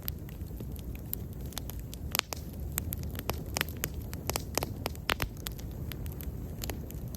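Wood bonfire burning, a steady low rumble of flames with frequent sharp, irregular crackles and pops.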